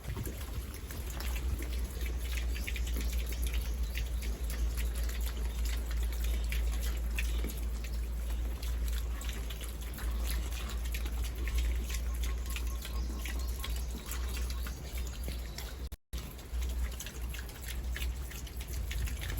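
Water running and splashing irregularly over a steady low rumble, cutting out for a moment near the end.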